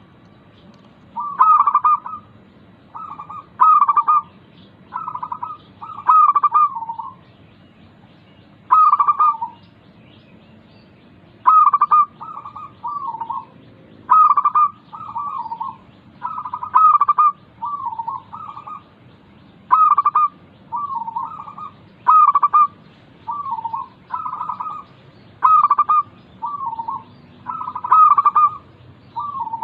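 Zebra dove (perkutut) cooing, played as a lure recording to set a quiet caged dove singing: short rippling coo phrases repeat about every one to two seconds, with a couple of longer pauses, over a faint low hum.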